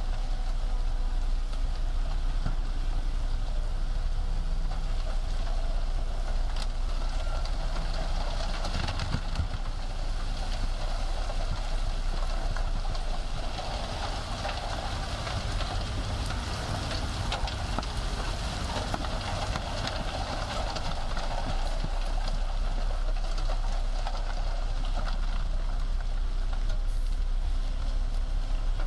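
Diesel engines of heavy earthmoving machinery running steadily.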